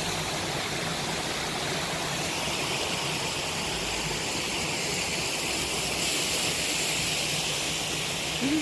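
Park pond water fountain splashing: a steady, even rush of falling water.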